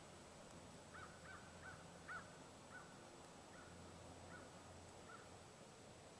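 A bird calling faintly: a series of about eight short calls, the loudest a little after two seconds in, then spacing out and fading toward the end, over quiet background hiss.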